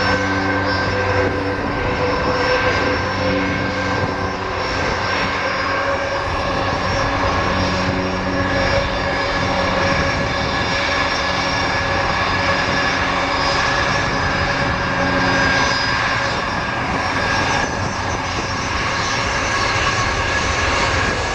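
Jet engines of a Boeing 737 MAX 8 (CFM LEAP-1B turbofans) running loud and steady, a whine of several held tones over a broad rush, as the airliner makes an immediate departure.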